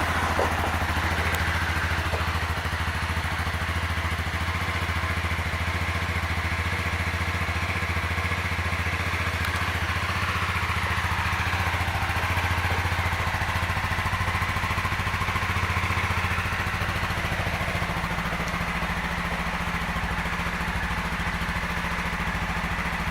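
A 2018 Honda CBR300R's 286 cc single-cylinder engine idling steadily a few seconds after being started. Its note shifts and eases a little about seventeen seconds in.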